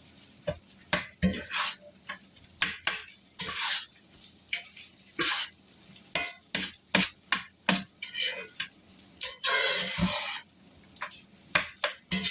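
Utensil stirring fried rice in a pan, with frequent irregular clanks and scrapes against the metal over a steady sizzle of hot oil, as scrambled egg and its excess oil are mixed into the rice.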